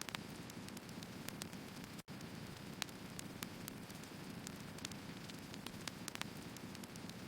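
Firewood burning: a steady low hiss with frequent small, sharp crackles and pops. The sound cuts out for an instant about two seconds in.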